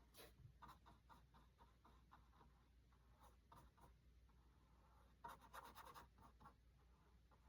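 Faint scratchy strokes of a paintbrush on canvas as acrylic paint is brushed on, with a quicker run of strokes about five seconds in.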